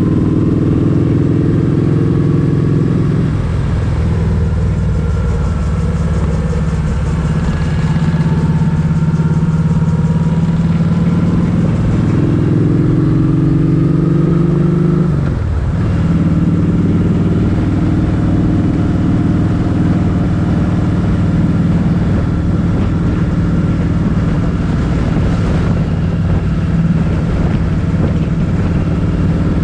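Motorcycle engine running steadily while riding, its note shifting briefly a few seconds in and dropping off for a moment about halfway through before picking up again, as with a gear change or easing off the throttle.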